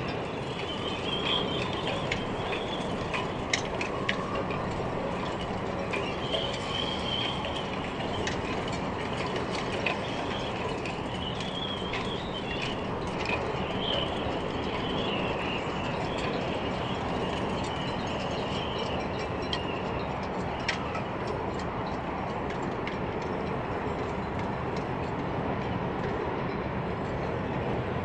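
Diesel passenger train running across a steel railway bridge: a steady rumble and rail clatter, with a wavering high whine that dies away about twenty seconds in and scattered sharp clicks.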